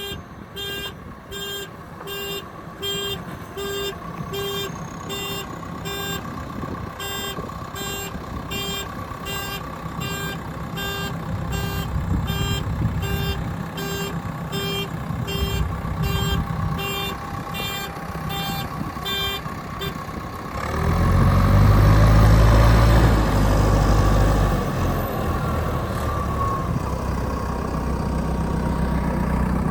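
Heavy construction machinery's backup alarm beeping steadily, about one and a half beeps a second. About two-thirds of the way in, the beeping stops and a diesel engine revs up loud and low, then eases back.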